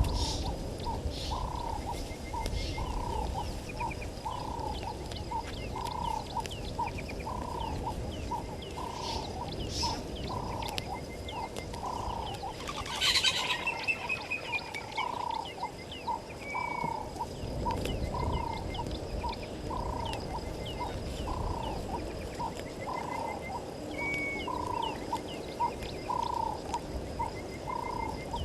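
A frog calling with a short, evenly repeated croak a little more than once a second, while birds chirp thinly. About halfway through there is one louder, sharp bird call that trails off in a falling whistle.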